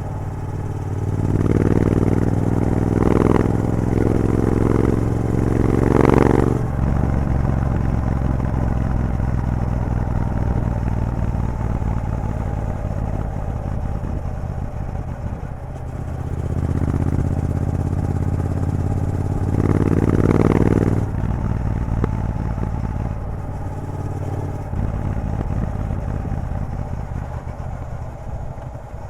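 Triumph Bobber's 1200 cc parallel-twin engine running through a Vance & Hines exhaust with the catalytic converter removed. It accelerates through the gears twice, once near the start and again about sixteen seconds in, and each run cuts off suddenly as the throttle closes. Between and after the runs it runs on more steadily.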